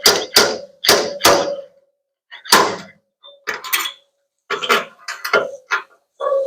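Slide-hammer dent puller pulling on studs welded to a pickup bed's sheet-metal panel: sharp metallic knocks, four in the first second and a half, then further knocks in small groups with short pauses between them.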